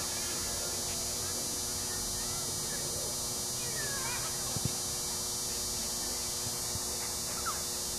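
Steady hiss and low hum of open-field background noise, with faint, distant shouts from a youth soccer match scattered through it and a single sharp knock a little past halfway.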